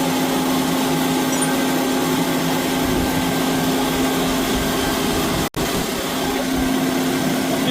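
T535 wet automatic escalator cleaner running: a steady motor hum and vacuum noise as it scrubs the steps and sucks up the water. The sound cuts out for an instant about five and a half seconds in, then carries on unchanged.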